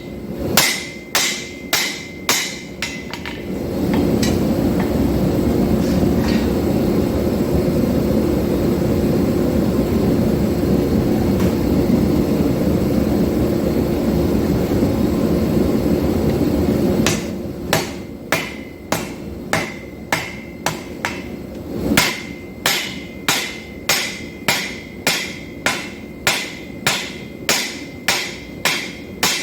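Hand hammer blows on hot 5160 steel on an anvil, about two a second, each with a short metallic ring, drawing out the bar for an integral knife. The hammering stops a few seconds in, giving way to a steady low rushing noise for about thirteen seconds, then resumes at the same pace.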